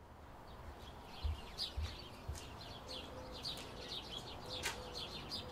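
Small birds chirping, many short high chirps in quick succession over a faint background hiss, with a few soft low thumps in the first two and a half seconds.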